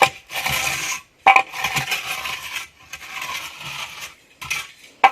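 A metal trowel scraping and scooping wet mortar, in about four strokes of a second or so, each starting with a sharp clink of metal.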